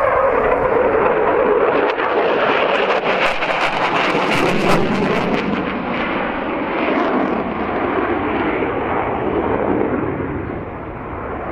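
Consolidated PBY Catalina flying boat's two Pratt & Whitney R-1830 Twin Wasp radial engines droning on a display pass, the engine note dropping in pitch just as it goes by, then a steady drone that eases slightly near the end.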